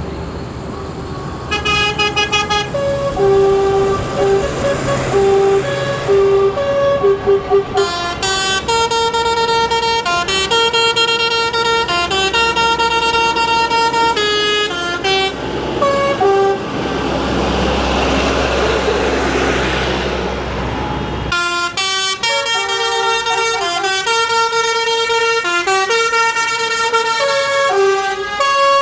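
Tractors in a passing procession sounding their horns: many short toots and some longer blasts at several different pitches, often overlapping, over the rumble of their engines. The engine noise grows louder as one passes close, then falls away about two-thirds of the way through while the honking carries on.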